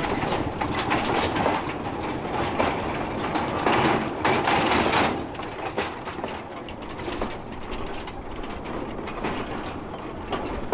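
Two-foot narrow-gauge train moving along the track, rattling and clanking with a run of metallic clicks and knocks, louder for about the first five seconds and then quieter.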